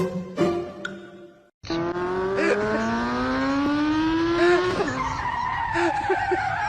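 A motor spinning up, its pitch rising steadily for about three seconds, then changing into a wavering higher whine.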